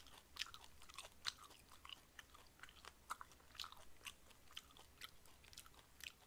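Faint, close-miked chewing and biting of marinated grilled pork: soft wet mouth clicks and smacks, several a second.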